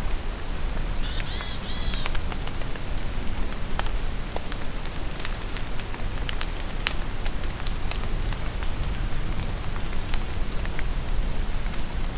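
Steady rain falling in a forest, with many separate drop taps. About a second in, a songbird gives a quick run of repeated chirps, and faint high peeps sound now and then.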